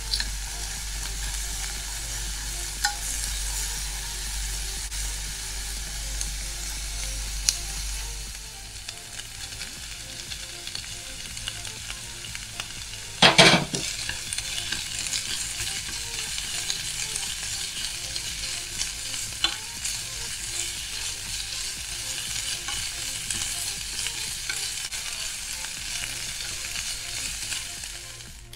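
Diced onion, green beans and carrot sizzling steadily in oil in a nonstick pan as they are stirred with wooden chopsticks, with occasional clicks of the chopsticks against the pan. About halfway through comes a loud, brief burst as peeled shrimp go into the hot pan, and then the stir-fry keeps sizzling.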